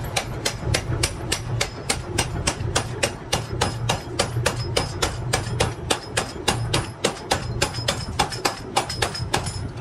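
Hammer blows on metal in a fast, even rhythm, about four or five strikes a second, over a low steady hum.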